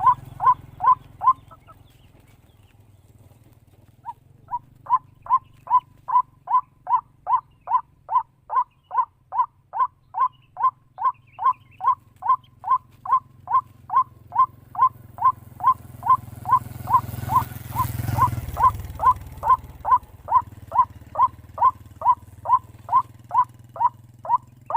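White-breasted waterhen calling: a long, steady string of short, harsh notes, about two a second. The calls break off shortly after the start and resume about four seconds in. A low rumble runs underneath and swells about three-quarters of the way through.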